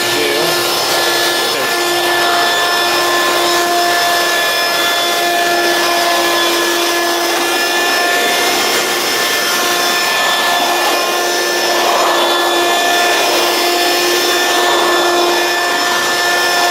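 Hoover Quik Broom Encore S2551 stick vacuum running on its high speed setting: a steady motor whine over the rush of air, holding level throughout.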